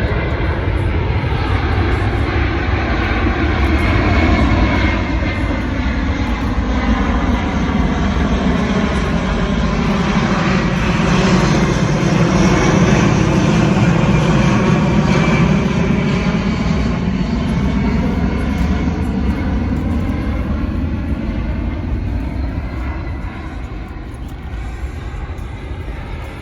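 Boeing C-17 Globemaster III's four turbofan engines on a slow, low pass with flaps deployed. Loud jet noise builds to its loudest about halfway through, with a sweeping, phasing swish as the aircraft goes by, then fades near the end.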